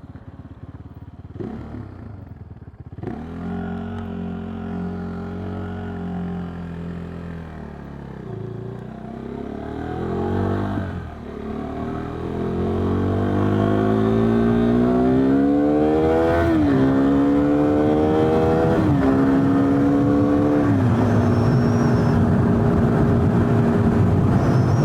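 KTM 390 Duke's single-cylinder engine pulling hard, its note rising and then dropping sharply at each upshift, three or four times, before settling to a steady cruise. Wind rush grows with the speed.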